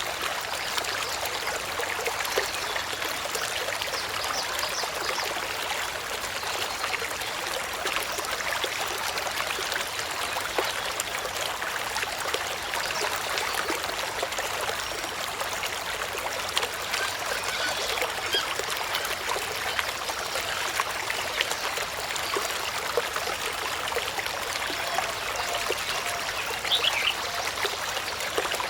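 Steady trickling, running water, like a small stream, with many small splashes throughout and a brief high chirp near the end.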